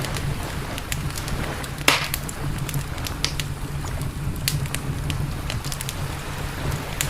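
Campfire crackling, with scattered sharp pops and one louder pop about two seconds in, over a steady low rumble.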